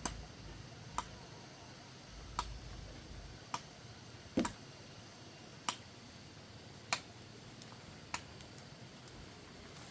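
Wood being chopped by hand, sharp single strikes about every second or so.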